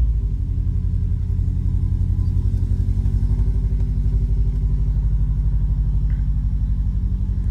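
Subaru WRX's 2.0-litre turbocharged flat-four (EJ205) idling steadily with an even low pulse, moments after starting: it fired right up on its newly installed fuel pump.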